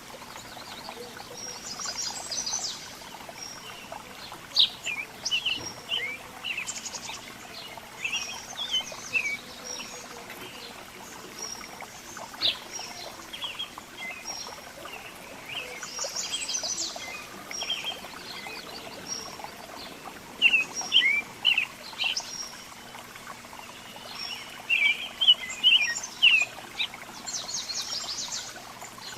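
Several small songbirds chirping and calling together in quick, overlapping short notes and rapid chip series, with louder clusters now and then.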